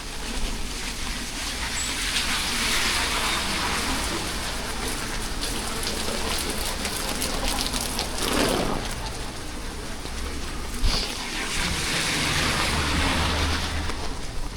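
Steady hiss of rain falling on a street, swelling louder a few times as vehicles pass on the wet road.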